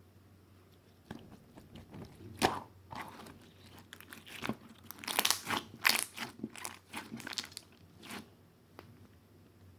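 Close, irregular crunching and crackling, starting about a second in, thickest and loudest in the middle, and thinning to a few last crackles near the end.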